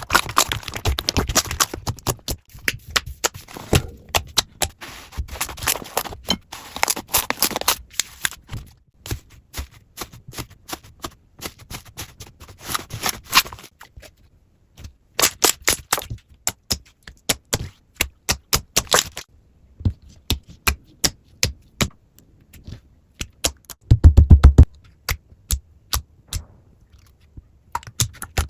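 Slime being worked by hand, making sharp clicking and popping sounds: a dense crackly run for the first half, then spaced single pops. A brief louder low burst comes about 24 seconds in.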